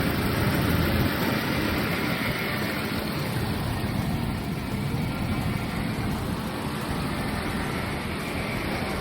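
Jaguar XJS V12 engine running steadily.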